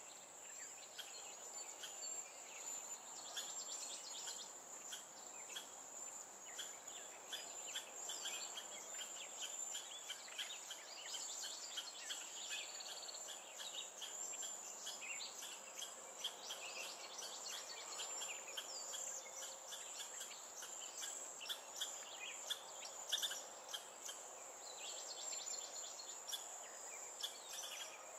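Many short bird chirps and calls, dense and overlapping, over a steady high-pitched insect trill that never stops.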